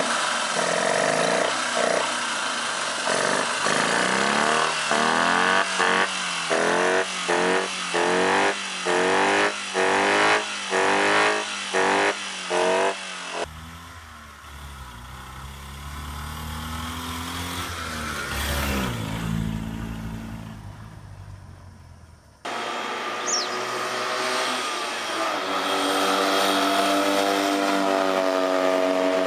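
Honda 360cc air-cooled twin-cylinder kei-car engine. First it is revved in a quick series of blips, about one a second. After a cut, a small car drives past with its engine note falling as it goes by. After another cut, about three quarters in, the engine accelerates with a steadily rising note.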